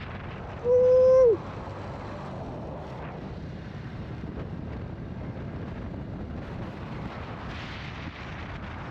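Motorbike taxi ride: steady wind buffeting the microphone over engine and road noise. A horn honks once, loud, for under a second about a second in, its pitch dropping as it stops.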